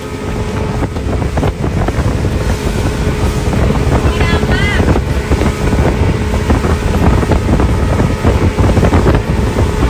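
Wind buffeting the microphone aboard a moving motorboat, with the boat's engine running underneath and spray and waves around the hull. A short high-pitched call cuts through about four seconds in.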